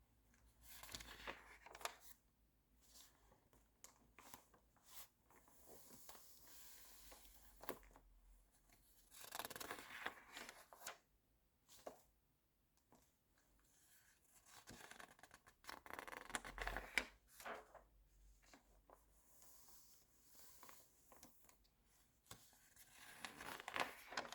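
Magazine pages being turned and handled close up: soft, intermittent paper rustles and swishes with quiet pauses between them, the fullest ones a little under halfway through, about two-thirds through and near the end.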